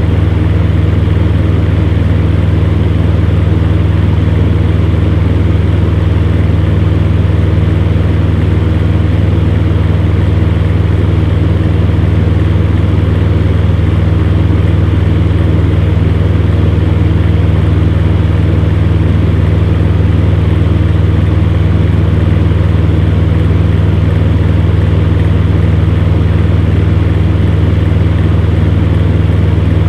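Fan heater running steadily: a deep, constant motor hum under an even rush of air.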